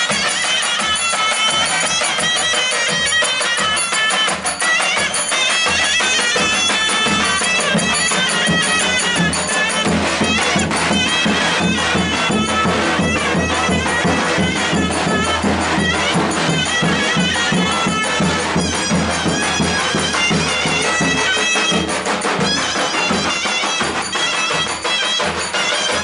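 Loud Turkish folk dance music led by a shrill reed wind instrument playing a wavering melody over a fast, steady drum beat.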